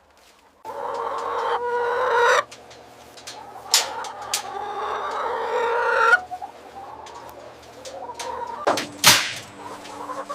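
A flock of chickens clucking and squawking in overlapping calls, with a few sharp clicks; the loudest click comes near the end.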